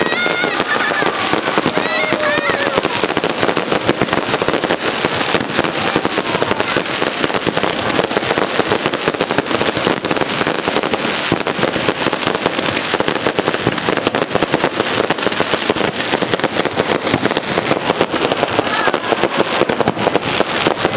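Aerial fireworks bursting close overhead in a dense, continuous crackling, with no let-up. A high voice calls out briefly near the start and again near the end.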